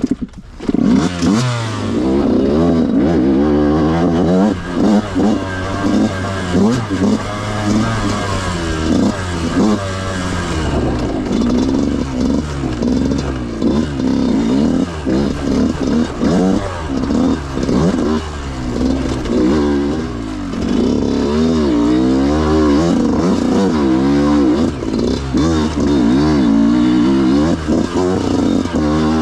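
Yamaha YZ125 two-stroke dirt bike engine under way on a trail ride, its pitch rising and falling over and over as the throttle is worked through the gears. The engine comes in loud about a second in.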